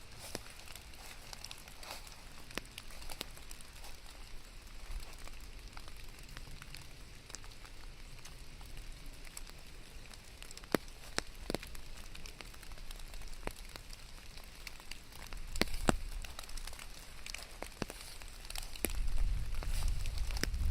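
Steady rain with many scattered sharp drops and ticks landing close by. A louder low rumble comes in near the end.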